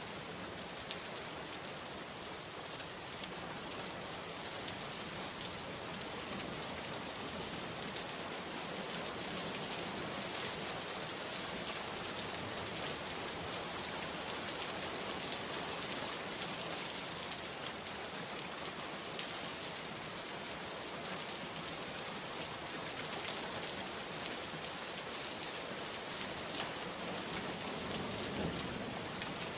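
Steady rain falling and pattering on a surface, with scattered individual drops ticking and a few louder single taps.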